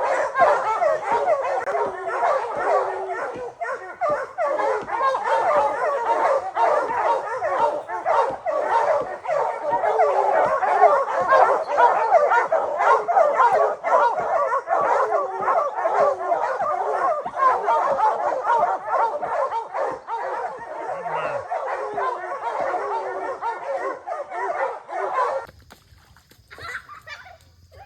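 A pack of hunting hounds barking together in a dense, continuous chorus of many overlapping voices. It cuts off abruptly about 25 seconds in.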